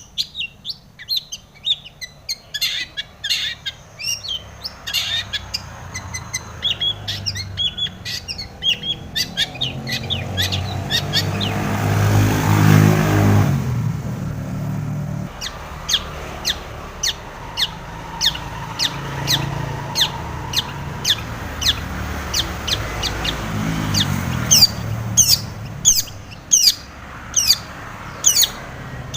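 Long-tailed shrike (cendet) singing in a fast string of sharp, repeated chirps. In the middle a low rumble swells up and fades, loud enough to sit under the song.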